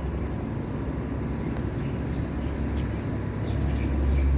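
Boat's diesel engine running steadily with a low drone.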